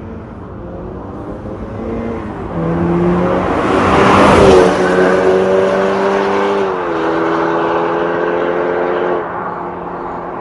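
BMW G60 530i's B48 turbocharged four-cylinder engine heard through an MS-R valved catback exhaust, under load. The exhaust note holds steady tones that step in pitch a few times, and it is loudest about four seconds in.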